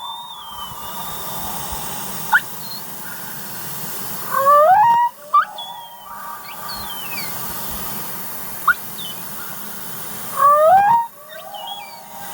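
Humpback whale calls heard underwater: two rising upsweeps about a second long, about six seconds apart, with thinner high gliding whistles between them, over a steady underwater hiss.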